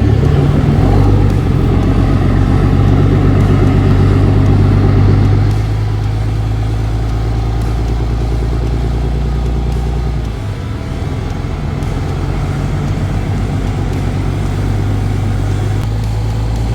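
Vehicle engine drone while driving, a steady low hum. It is louder for the first five or so seconds, then settles lower, with a brief dip about ten seconds in.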